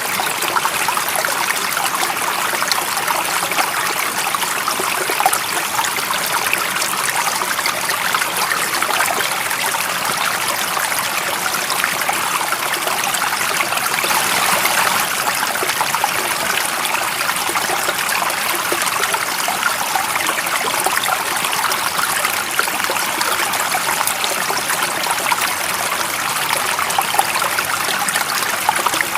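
Stream water running steadily, an even rush of water with no pauses or changes.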